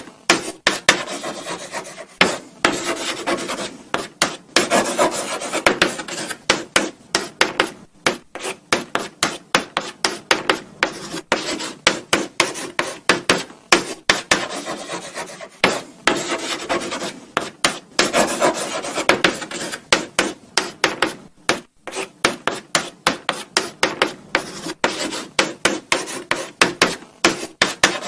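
Chalk writing on a blackboard: a continuous run of short scratchy strokes and taps, with brief pauses between bursts of writing.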